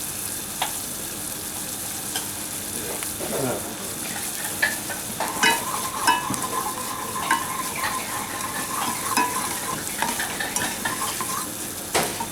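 White wine boiling and sizzling hard in a pan over sweated onions on a high gas flame as it reduces, with scattered clicks. A thin steady tone sounds for several seconds in the middle.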